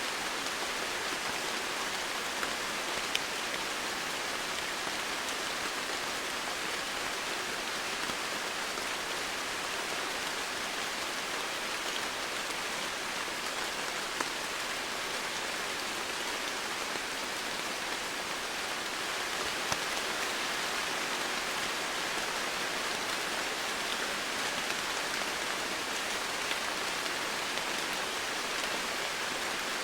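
Steady rain falling on foliage and surfaces, an even hiss with an occasional sharper drop tick.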